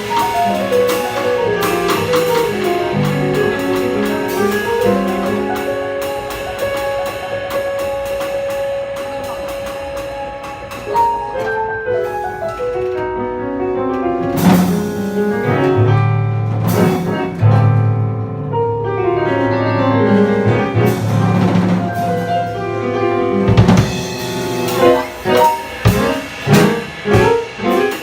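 Live jazz combo of guitar, piano, upright-style bass and drum kit playing a deliberately weird, horror-like original tune. A long held note sits over the band in the middle, then heavy low bass notes come in and the band hits a run of sharp, loud accents with the drums near the end.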